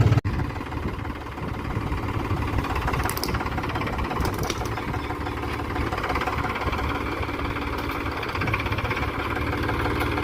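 Diesel engine of a Powertrac Euro 45 Plus tractor running steadily at low speed, with a knocking clatter.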